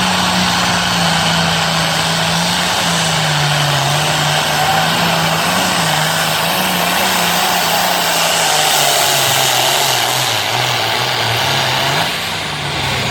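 Turbocharged tractor engine at full throttle pulling a weight-transfer sled, its pitch slowly falling as the sled's load builds and drags the engine down; the level eases off slightly about a second before the end.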